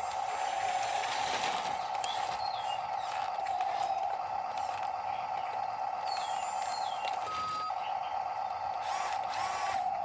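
Steady whine of a radio-controlled construction model's small electric motor and gears, with a short higher tone about seven seconds in.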